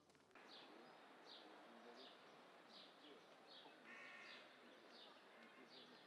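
Faint woodland ambience: a bird repeats a short, falling high call roughly every three-quarters of a second over a low hiss, with a brief different call about four seconds in.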